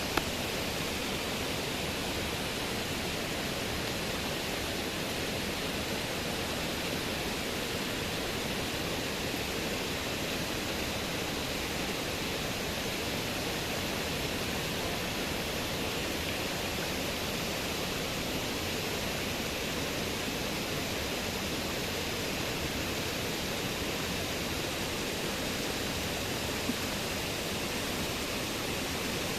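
River water rushing over rocks, a steady hiss with no change in level. There is a small click just after the start and another near the end.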